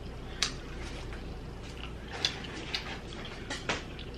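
A few light, sharp clicks and taps, five in all, spread irregularly over a steady low hum.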